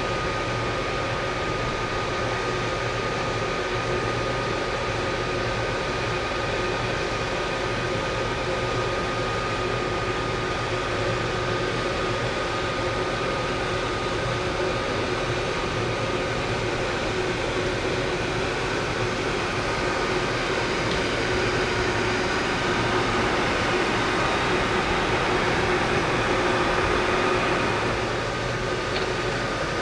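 A standing electric train's cooling fans and auxiliary equipment humming steadily, with a constant high whine over a low drone. The hum swells a little near the end, then eases slightly.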